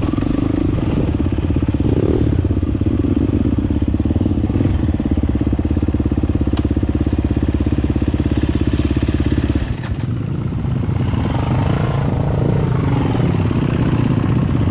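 Dirt bike engine running under way with an even, rapid firing pulse. About ten seconds in the engine note changes, with a brief dip in loudness, and it runs on rougher after that.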